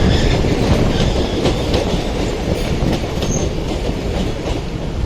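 Passenger coaches of an express train running through a station at speed, wheels clattering over rail joints, with a brief high squeal about three seconds in. The noise eases slightly near the end.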